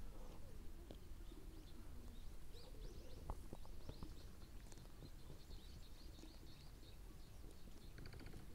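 Faint chirping and twittering of small birds over a low outdoor rumble, with a few soft clicks a little past the middle.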